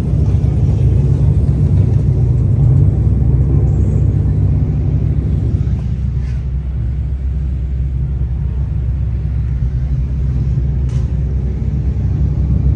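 Steady low rumble of a car, with a brief faint click about six seconds in and another near eleven seconds.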